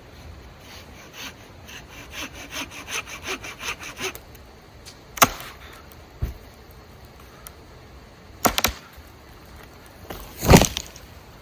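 Hand-held folding saw cutting dead, dry wood in quick back-and-forth strokes, about four or five a second, for around three seconds. Then come several separate sharp cracks of wood, the loudest near the end.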